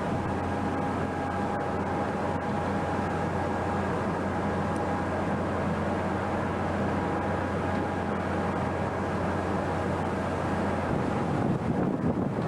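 Steady drone of a Coast Guard cutter's machinery under way, a low hum with a few held tones over a rush of wind and sea. About eleven seconds in the tones drop away and a louder, gusty rush of wind takes over.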